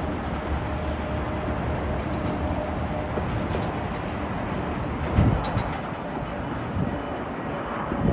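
Jet airliner engines heard steadily during an approach, a continuous rumble and hiss with a faint steady whine. A few low thumps, about five seconds in and near the end, knock through it.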